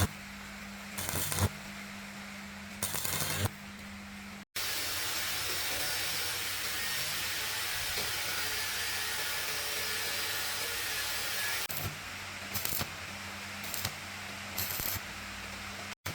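Short hisses of compressed air from an air tool, a burst every second or so over a steady electrical hum, then a long continuous hiss lasting several seconds, then short hisses again near the end.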